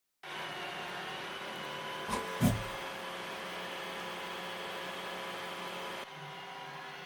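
Robot vacuum cleaner running with a steady whir, with two short knocks a little after two seconds in; the sound drops a little about six seconds in.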